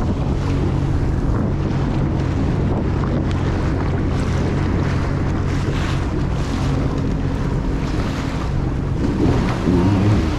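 Jet ski engine running at a steady pace, a low steady hum under rushing water and wind buffeting the microphone.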